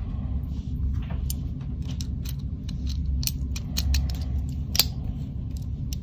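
Small irregular clicks and taps from a die-cast Hot Wheels car's metal chassis and wheels being handled in the fingers, over a steady low hum.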